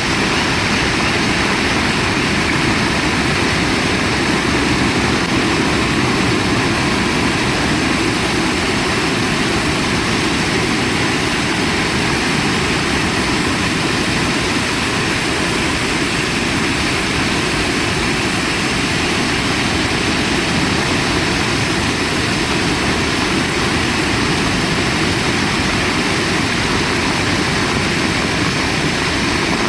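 Heavy rain pouring down, a dense, steady hiss with no letup.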